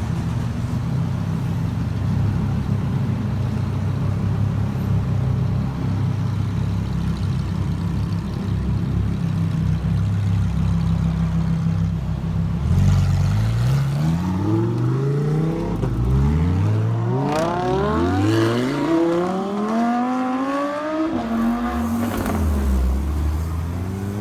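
V10 supercar engine running steadily at low revs. From about halfway through it accelerates hard, the revs climbing and dropping back again and again through gear changes, then it settles to a steady note near the end.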